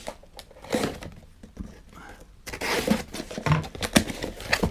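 Hands opening a shipping package: irregular rustling, crinkling and tearing of the packaging with small knocks and clicks, getting busier and louder about halfway through.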